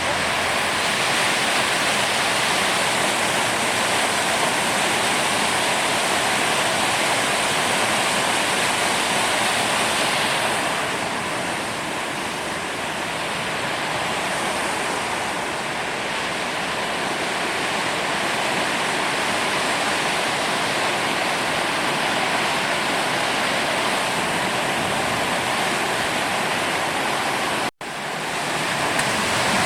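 Steady rush of flowing water, broken by a brief cut near the end.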